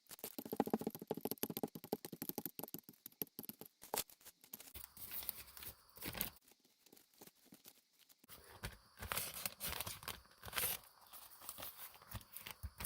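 Sticky, crackling noise of acrylic paint being worked on a gel printing plate, dense and rapid for the first few seconds, then in shorter scattered bursts.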